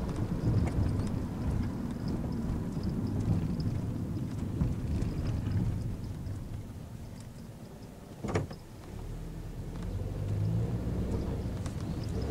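Nissan NV200 van's engine and road noise heard from inside the cabin. It drops low as the van slows around the middle, with a single sharp knock about eight seconds in, then the engine picks up again as the van pulls away.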